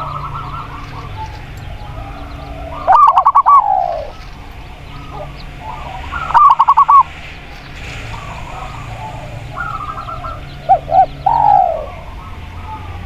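Spotted dove and zebra dove calling: three loud runs of quick cooing notes, about 3, 6.5 and 11 seconds in, two of them ending in a long falling note. Other small birds chirp steadily underneath.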